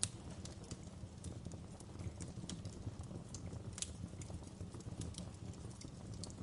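Wood fire crackling in a fireplace: irregular pops and snaps over a low steady rumble, with one sharp pop right at the start.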